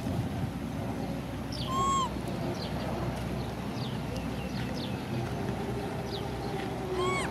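Small birds chirping repeatedly in the background, with two louder rising-and-falling calls, one about two seconds in and one near the end.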